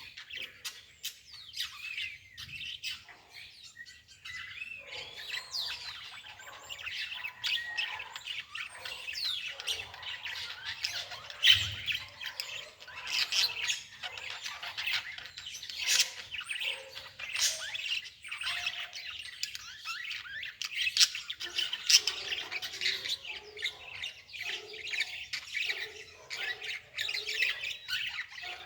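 Many birds chirping and calling over one another in a dense chorus of short rising and falling chirps, with a few louder, sharper calls standing out.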